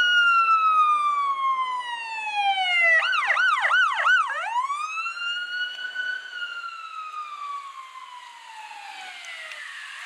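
Fire department emergency vehicle's electronic siren in a slow wail, falling in pitch, switching briefly to a fast yelp of about four quick warbles around three seconds in, then back to the slow wail rising and falling. It grows fainter as the vehicle moves away.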